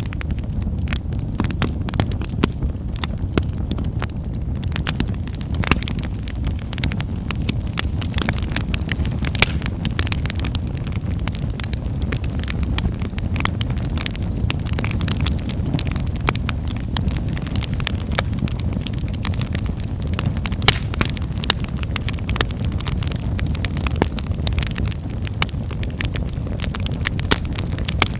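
Wood fire burning in a fireplace: a steady low rumble of the flames under frequent sharp crackles and pops.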